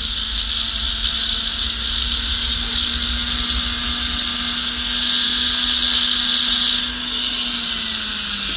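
Rotary tool spinning a silicone polishing wheel against an 18 karat gold ring shank: a steady motor whine under a grinding hiss that grows louder in the middle, the motor note dropping slightly near the end.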